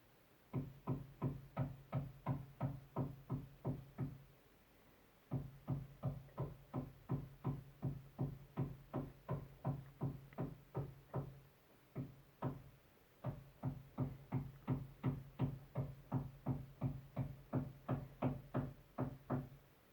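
Steady, regular knocking carried through the building from a neighbouring flat, about three blows a second, each with a dull low ring. It comes in three long runs broken by short pauses and one lone blow.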